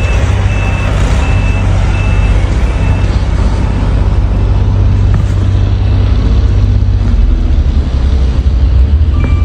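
A large vehicle's engine running with a steady low hum, while a reversing alarm beeps about five times, evenly spaced, over the first three seconds.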